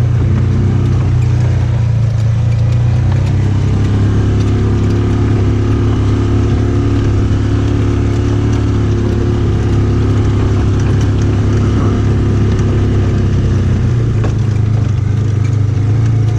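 Polaris off-road vehicle's engine running steadily under way, a loud even low drone.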